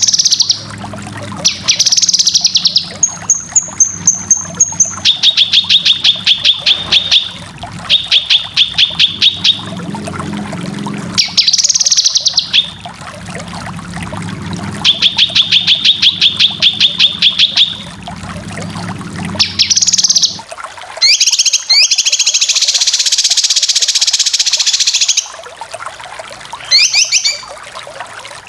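Cucak kinoy singing: repeated fast rattling trills of rapid notes, each lasting a second or two, alternating with short high phrases, then a long harsh buzzy burst about three-quarters of the way through. A low hum runs beneath the song for most of it and stops about two-thirds of the way in.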